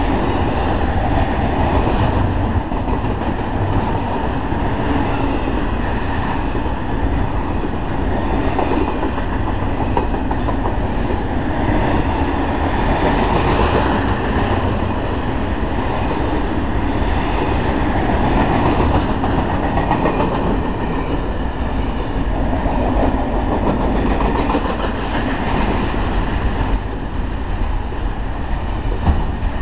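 Double-stack intermodal freight train's well cars rolling past at close range: steady, loud noise of steel wheels running on the rails.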